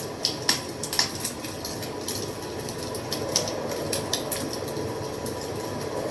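Wood fire crackling, with irregular sharp pops over a steady hiss of burning; the loudest pops come in the first second.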